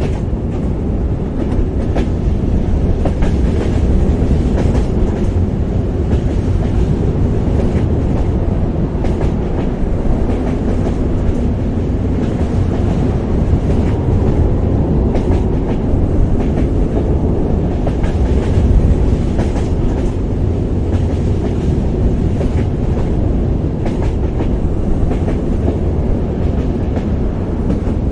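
Train running at a steady pace: a constant low rumble with faint, irregular clicks of the wheels over the rails.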